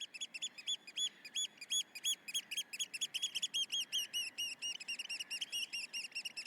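Small birds chirping: a dense run of short, high, rise-and-fall notes, several a second and overlapping.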